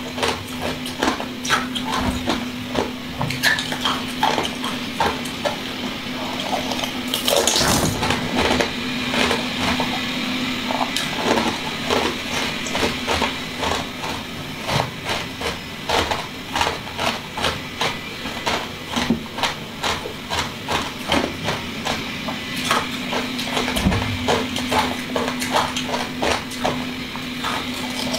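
Close-miked eating of bead-filled jelly domes: wet chewing and squishing with a quick run of small clicks, several a second, over a low steady hum.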